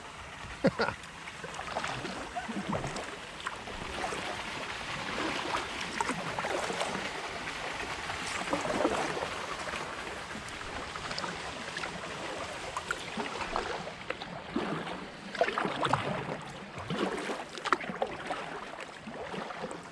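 Paddle strokes in river water around an inflatable drop-stitch kayak being paddled along: a steady wash of water with scattered small splashes.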